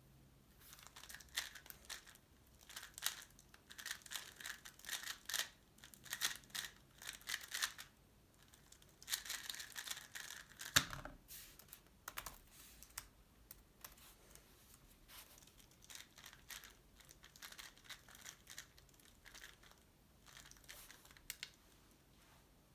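X-Man Tornado V3 Pioneer 3x3 speedcube being turned fast, a dense run of quick plastic clacks in two bursts, with a single sharp knock about halfway through, then slower, sparser turning.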